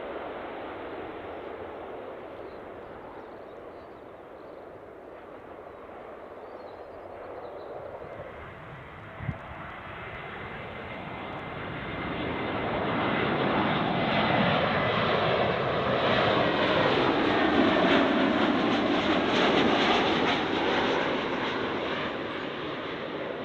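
Airliner on short final passing low overhead, its engine noise building from about halfway in and then easing off near the end. At its loudest it makes a sweeping whoosh with a faint high engine whine on top.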